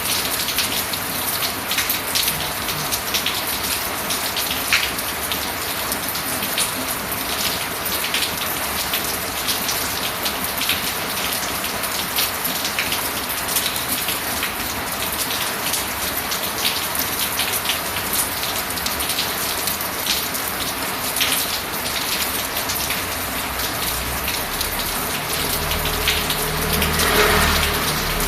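Steady rain falling, an even hiss with the patter of many drops. Near the end a low rumble swells and fades over it.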